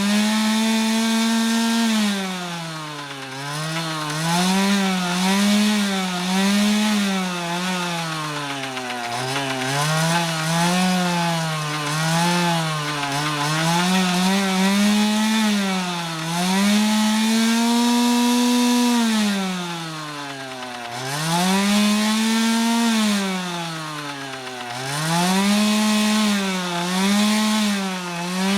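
Dirt bike engine being revved over and over, its pitch rising and falling in quick blips, with one longer rev held high for a couple of seconds just past the middle.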